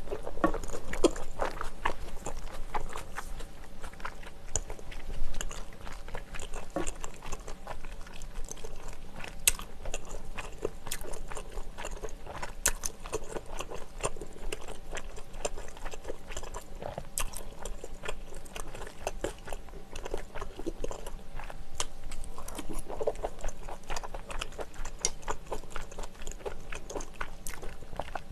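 Close-miked chewing of saucy glass noodles and seafood: a steady run of small wet mouth clicks and smacks.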